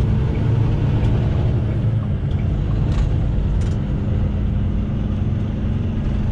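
Semi truck's engine and road noise heard from inside the cab while driving: a steady low drone, with a couple of light clicks about three seconds in.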